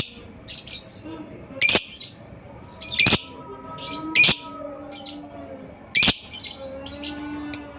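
Lovebird giving short, shrill chirps, about five of them, spaced a second or so apart.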